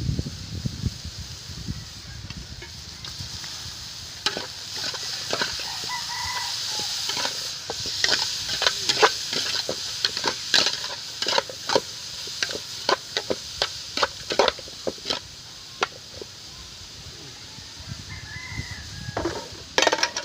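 A pot of food being stirred, the spoon knocking sharply against it about once or twice a second, over a steady sizzle from the cooking. A chicken clucks briefly a couple of times.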